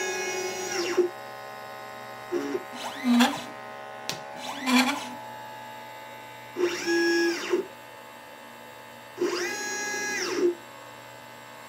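Stepper motors of a LitePlacer desktop pick-and-place machine driving its gantry in a series of moves. Each move is a whine that rises in pitch, holds, then falls, about five times, over a steady machine hum. There is a sharp click about 4 s in.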